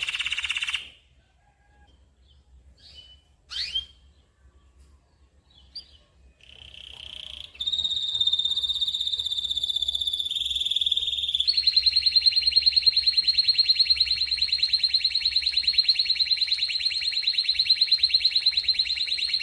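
Canary song: a short high trill, a few seconds of near quiet with a few faint chirps, then long, fast rolled trills held at a steady high pitch, changing tone twice.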